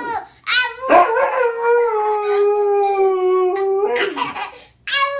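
Dog howling: one long howl held for about three seconds and slowly sinking in pitch, then shorter howls near the end.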